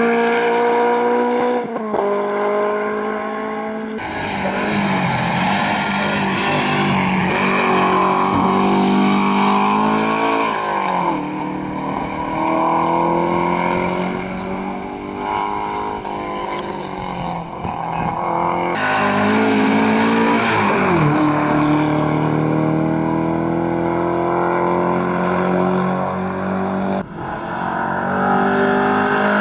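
Rally car engines at full throttle, pitch climbing through each gear and dropping sharply at the upshifts. The sound cuts abruptly between several passes.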